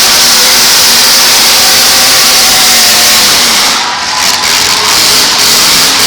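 Loud demolition-derby car engines revving hard, their pitch rising and falling as the full-size cars drive and ram each other, with a brief dip in loudness about four seconds in.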